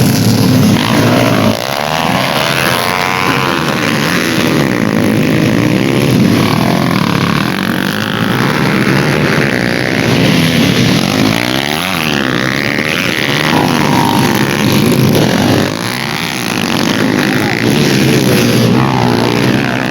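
Several racing motorcycle engines revving hard and passing by, their pitch rising and falling and crossing over one another.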